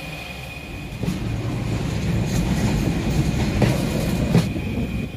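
Train wheels rumbling on the rails at an open coach door, swelling about a second in, with several sharp clacks over rail joints. A steady high whine runs underneath.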